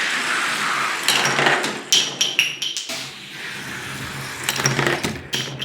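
Two die-cast toy cars racing down a plastic track: a rolling rattle of wheels on the track, broken by a string of sharp clacks and clinks, some of them ringing briefly, as the cars bang through the course and its joints.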